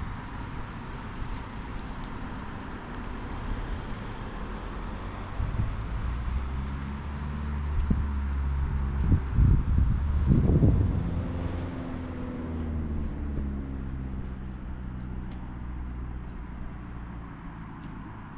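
Motor vehicle engine running with road and wind hiss, growing louder to a peak about ten seconds in, with a few knocks at the loudest point, then fading with its pitch falling slightly.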